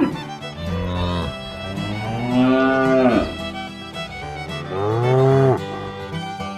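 A cow mooing three times, each moo rising and then falling in pitch, over background music.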